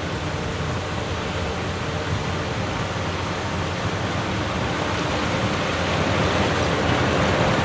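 Heavy diesel engine of earthmoving machinery running steadily under load, growing gradually louder in the second half.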